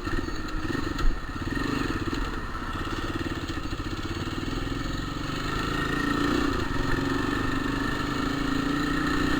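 Small motorcycle engine running steadily under way, its note shifting slightly about six seconds in, with a short knock about a second in. The rider blames the bike's hard shifting and a growl in third gear on a poorly repaired gearbox with a non-original third-gear cog.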